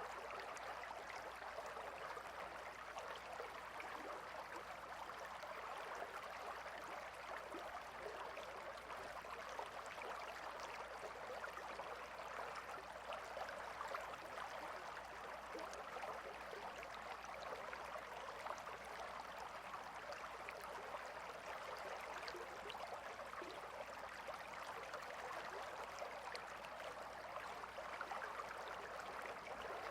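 Gentle river water flowing steadily over stones, an even babble with small splashes and gurgles.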